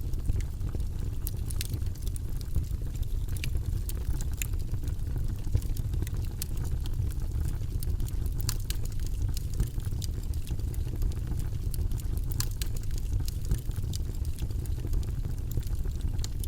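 Campfire burning, with frequent sharp crackles and pops scattered irregularly over a steady low rumble.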